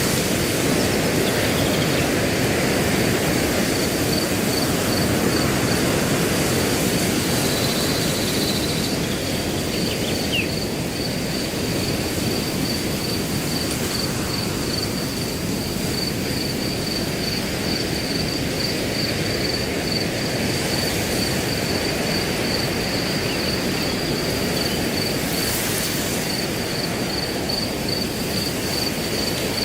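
Crickets chirping in a steady, high, pulsing trill over a constant rush of wind through grass.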